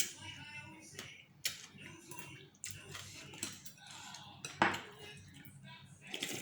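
Eating utensils clinking and scraping against a bowl of pork noodle soup during eating, in scattered short clicks, with one louder clack about two-thirds of the way through.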